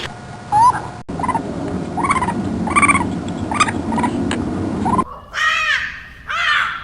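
Animal calls: a run of short, rising calls over a low background murmur, then, after an abrupt change near the five-second mark, two longer, harsher arched calls.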